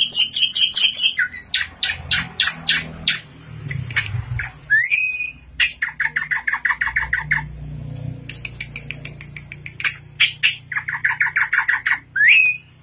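A drongo singing a busy, varied song: fast chattering runs of sharp notes, rising slurred whistles twice, and quick trills of repeated notes.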